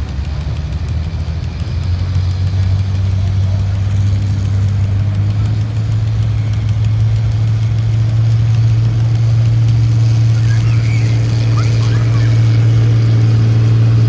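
Tractor-pull tractor's engine running with a steady, deep drone that grows gradually louder throughout.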